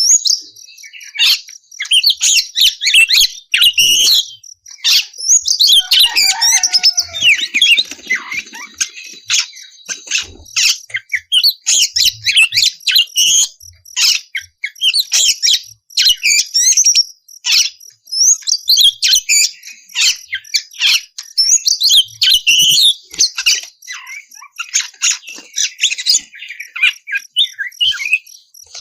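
Oriental magpie-robin (kacer) singing a long, unbroken song of rapid, varied chirps, whistles and trills, with a few lower notes sliding downward about six to eight seconds in.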